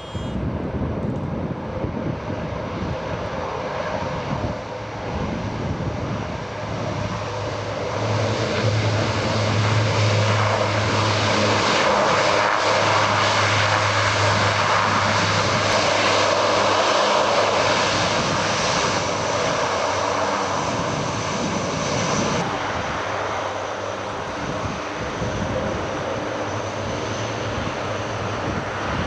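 Engines of a low-flying military aircraft passing over, a steady drone with a low hum that grows louder about a quarter of the way in and eases off after about three quarters.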